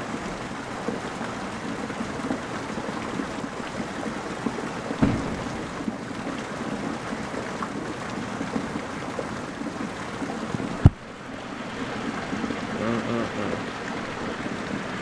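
Heavy rain falling and running off steadily. A dull knock comes about five seconds in, and a sharp click near eleven seconds is the loudest sound.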